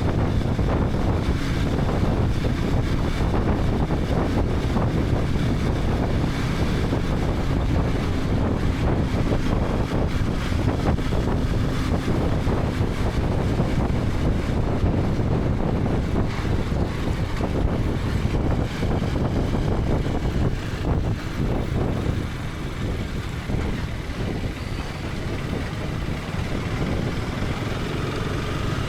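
KTM 250 Adventure's single-cylinder engine running as the motorcycle rides along, with wind rushing over the helmet-camera microphone. The sound eases off for a few seconds about two-thirds of the way through, then picks up again.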